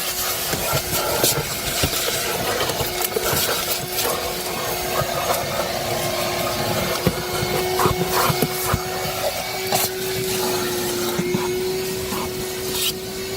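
Vacuum cleaner running steadily with a constant whine, used to vacuum out a car's interior, with scattered knocks and rubs from the nozzle working over the surfaces.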